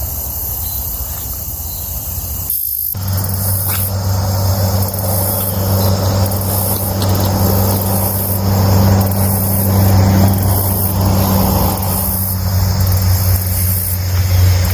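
Crickets chirping. About three seconds in, a steady low hum and a rushing noise come in under them and stay.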